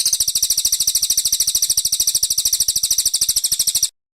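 Cililin coklat song: a loud, high, fast and even trill of rapid pulses, lasting about four seconds and cutting off suddenly near the end.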